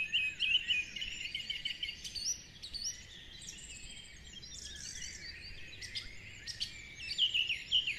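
Birdsong: several small birds chirping and trilling over a faint steady hiss, busiest at the start and again near the end.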